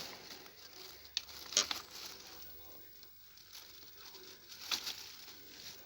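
A few faint clicks and rustles of hands handling tools and parts on a bench: one a little after a second in, a sharper one at about a second and a half, and another near the end.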